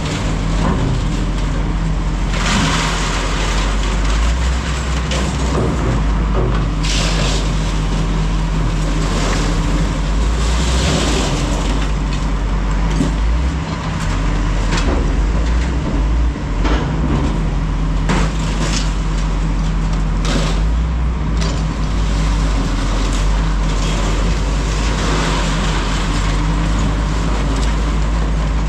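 Heavy diesel engine running steadily, with several short bursts of clattering as light scrap metal is moved and dropped.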